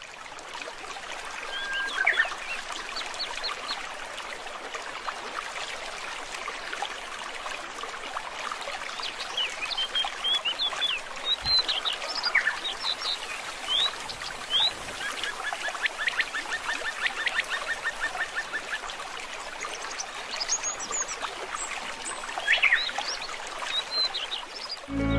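Small birds chirping and calling again and again over a steady hiss. A rapid trill runs for about three seconds just past the middle.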